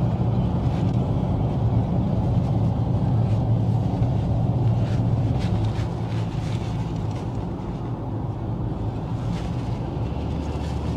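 Steady road and engine drone of a moving car, heard from inside the cabin; it eases off slightly a little past the middle.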